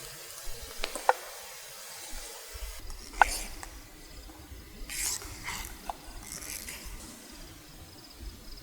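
Scattered sharp crackles and clicks from a campfire, with a faint, steady high insect trill coming in past the middle.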